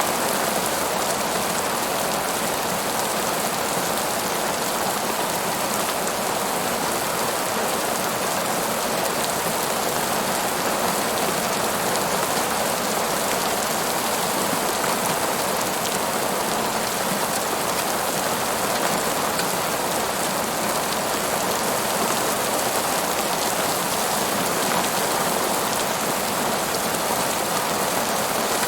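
Steady rain falling on a surface, an even hiss of many drops that doesn't change.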